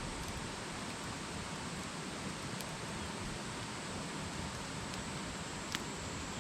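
Wood campfire burning: a steady hiss with a few sharp crackles, the loudest a little before the end.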